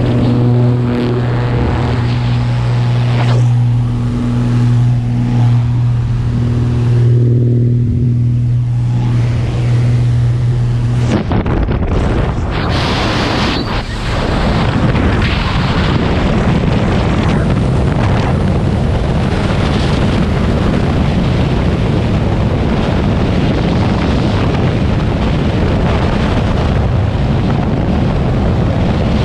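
Steady drone of the jump plane's engine and propeller for about the first eleven seconds, then a sudden switch to loud, even wind rush over the microphone as the skydiver falls free.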